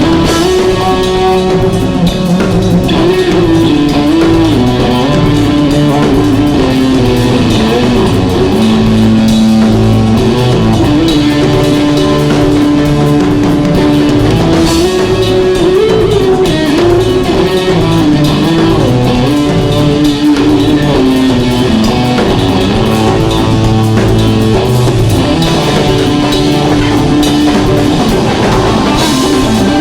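Live rock band playing an instrumental passage: a held lead melody with bends and slides over drum kit and bass guitar.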